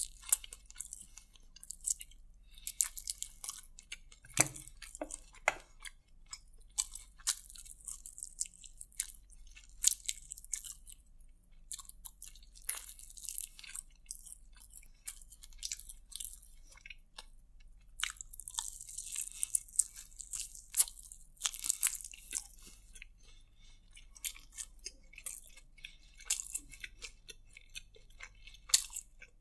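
Close-miked chewing of a sauced fried chicken lollipop, eaten by hand, heard as a dense run of short wet mouth clicks and crunches. It is busiest about two-thirds of the way through.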